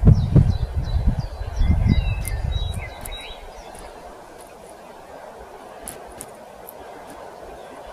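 Small birds chirping and twittering in quick short calls over a low, gusty rumble; after about three seconds the rumble dies away, leaving a steady faint hiss with a few scattered high clicks.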